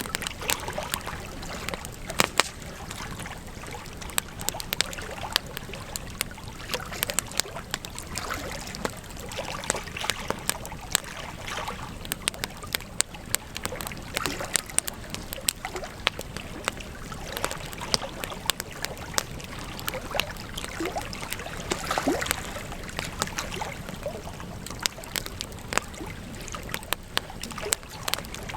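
Campfire crackling: a dense, irregular run of sharp pops and snaps over a steady hiss of burning wood.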